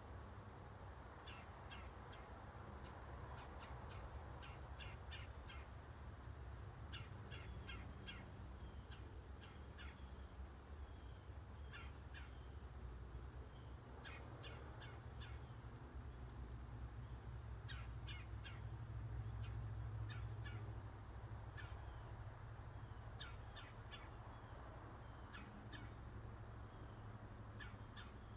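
Faint bird calls in short runs of several quick notes, repeating every few seconds, over a steady low rumble that grows louder about two-thirds of the way through.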